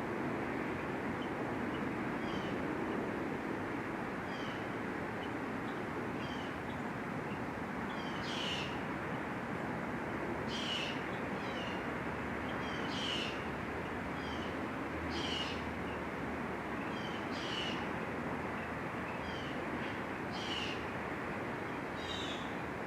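A bird calling over and over: short, high calls repeated every one to two seconds, louder in the second half, over a steady background hiss.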